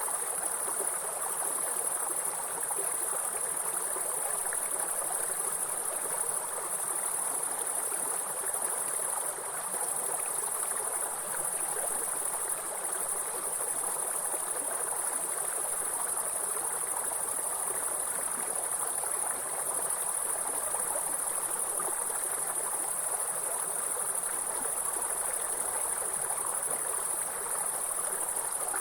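A steady high-pitched insect chorus over the continuous rush of flowing stream water.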